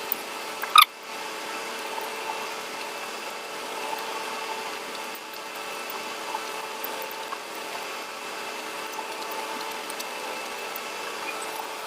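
Steady mechanical hum under faint eating noises, with one sharp, loud mouth smack about a second in and a few small clicks scattered through.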